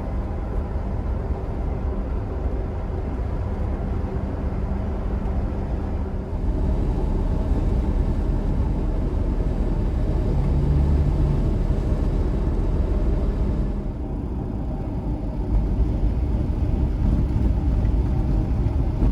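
Steady low rumble of a moving road vehicle, engine and road noise together with a faint hum. It gets louder about six seconds in, eases for a moment around fourteen seconds, then picks up again.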